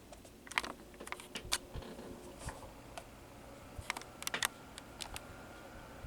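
Scattered light plastic clicks and taps from the Galaxy 6-inch table fan's plug and speed switch being handled as the fan is switched on at low speed. A faint steady hum comes in about four seconds in as the motor starts to turn, slowly spinning up.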